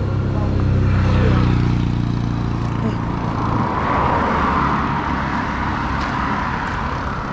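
Motor vehicle engine running close by with a steady low hum, which drops away a few seconds in. Road and traffic noise follows, a broad hiss while moving past other road users.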